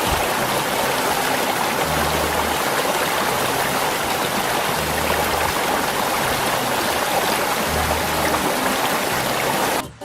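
Mountain stream water rushing, a loud steady rush that cuts off suddenly near the end, with faint background music underneath.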